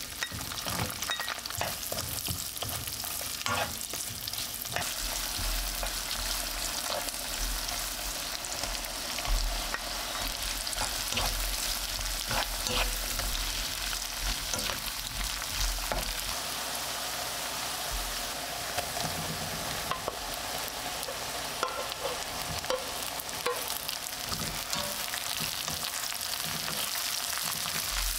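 Food sizzling in a frying pan, with occasional short clicks of a utensil against the pan.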